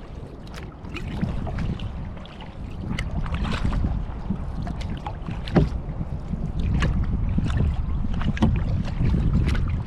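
Kayak paddling: water splashing and dripping off the paddle blades in irregular small splashes, the strongest a little past halfway, over a steady low rumble of wind on the microphone.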